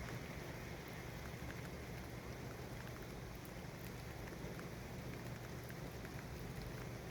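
Steady city traffic ambience: a continuous low rumble under an even hiss, with a few faint ticks, unchanging throughout.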